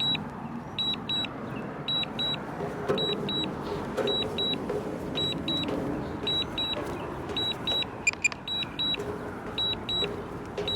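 Return-to-home alert from a DJI Mavic Air 2 remote controller: pairs of short high beeps repeating about once a second. A faint motor-like hum rises and falls underneath.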